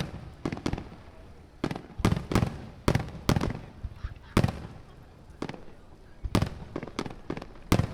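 Aerial firework shells bursting in a quick, irregular series of sharp bangs, each followed by a low rolling echo.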